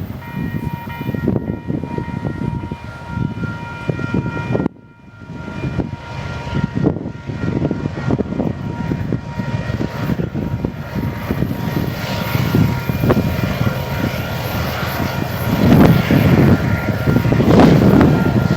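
Union Pacific freight train passing, a continuous rumble of locomotives and rolling cars with wind buffeting the microphone. A faint steady high whine runs through much of it; the sound drops out briefly about five seconds in and grows louder over the last few seconds.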